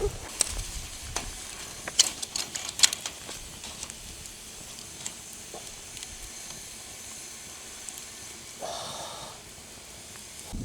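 Campfire hissing steadily, with a few sharp crackles in the first three seconds.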